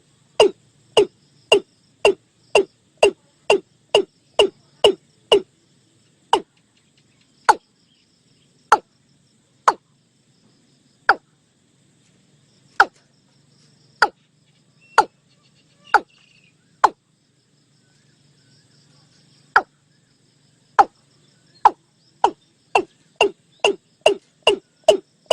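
Watercock calling: a series of short, loud 'kok' notes, each falling in pitch. The notes come about two a second, slow to one every second or so with a short pause, then quicken again near the end. A faint insect hiss runs behind them.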